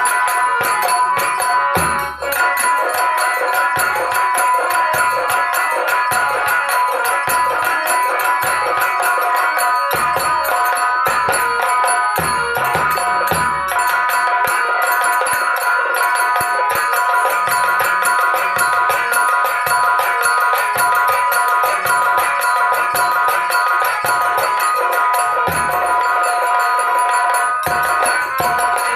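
Indian folk instrumental music: drum strokes over steady held melodic tones, with continual metallic jingling from small cymbals or a tambourine-like percussion.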